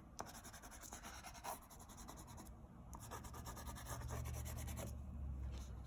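Crayon rubbing on paper in light back-and-forth colouring strokes, a faint, steady scratching.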